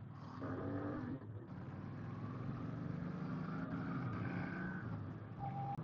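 Motorcycle engine running while riding, its pitch drifting up and down with the throttle, under steady road and wind noise. A short high beep sounds near the end.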